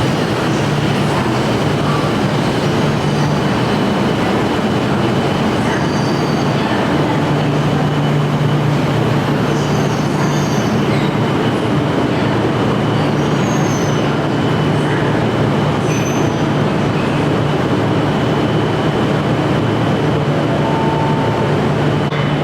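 Steady hum of Shinkansen train equipment at the platform, even in level throughout, with a constant low drone, a thin high tone and a few faint short squeaks.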